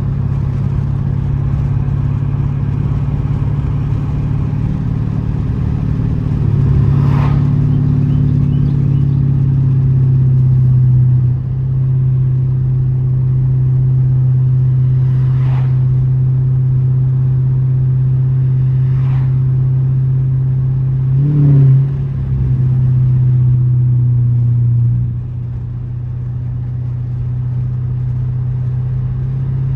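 Straight-piped 6.4-litre Hemi V8 of a 2012 Dodge Charger SRT8 under way, a steady deep exhaust drone. It gets louder about six seconds in, dips briefly around eleven seconds, gives a short rev a little past twenty seconds, and falls off in level after about twenty-five seconds.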